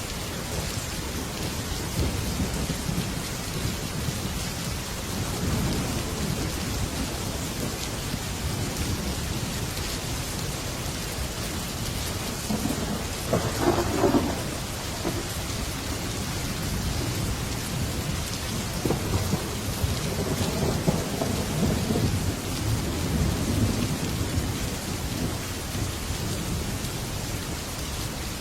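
Heavy rain drumming steadily on a metal roof, with long low rolls of thunder and a louder, sharper thunderclap about halfway through.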